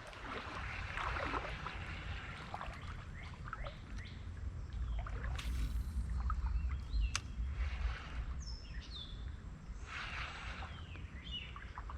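Creek water sloshing and splashing around someone moving through shallow water, over a low rumble on the microphone, with a few short chirping bird calls about two-thirds of the way in.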